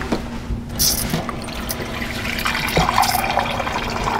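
Water poured from a measuring cup into an Instant Pot's inner pot around corned beef briskets, splashing and trickling, with a few light knocks.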